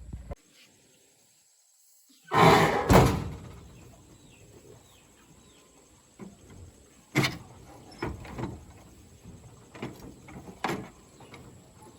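A loud sliding clatter a little over two seconds in, ending in a bang, then scattered sharp knocks and clanks.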